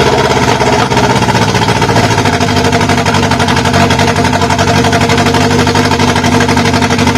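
Toyota 2E 1.3-litre four-cylinder engine on twin Weber DCOE 40 carburettors and a 292 cam, running steadily on its first start after a rebuild. It is loud, and the carburettors are not yet tuned.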